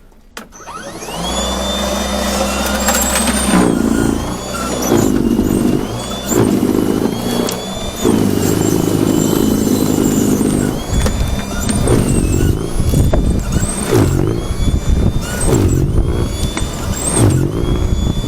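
A motor vehicle engine running, with a high whine that repeatedly climbs, holds and falls away every couple of seconds.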